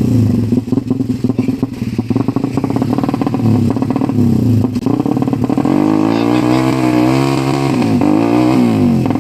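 Ported Suzuki Satria FU 150 single-cylinder four-stroke engine being revved hard in uneven bursts, then held at high revs that waver up and down, dipping briefly near the end. The engine is running on a trial CDI whose ignition mapping the tuners judge not yet right.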